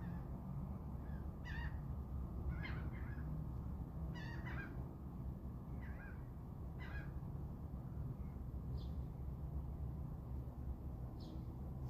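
Birds calling in a series of short, harsh calls, about six in the first seven seconds, then two thin higher notes, over a steady low rumble.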